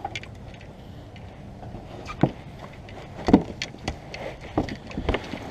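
Kayak and paddle knocking: a handful of irregular thuds, starting about two seconds in and coming closer together near the end.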